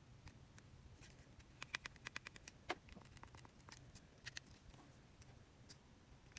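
Near silence broken by faint small clicks of buttons being pressed: a quick run of about eight clicks a second and a half in, a slightly louder click just after, and a few scattered ones later.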